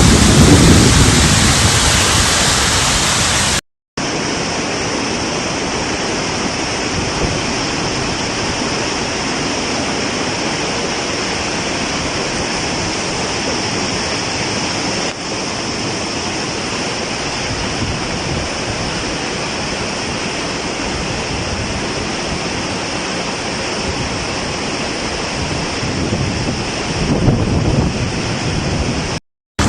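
Steady, loud rushing of rainstorm floodwater and rain, with no distinct events. It breaks off in a short silence about four seconds in and again near the end, where the footage cuts.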